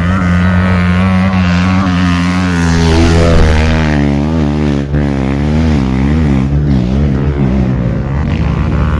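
Off-road trail motorcycle engine running, its pitch steady at first and then wavering up and down with the throttle for several seconds.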